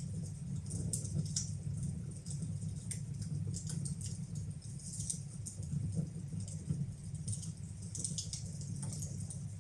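Wood fire burning in a fireplace: frequent irregular crackles and small pops over a steady low rumble of the flames.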